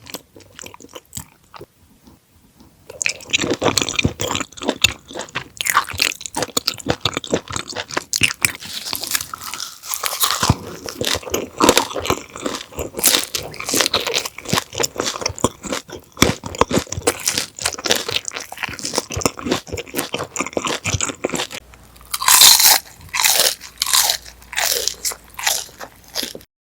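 Close-miked chewing and crunching of raw conger eel sashimi: a dense run of crisp bites and chews that starts about three seconds in, after a near-quiet opening.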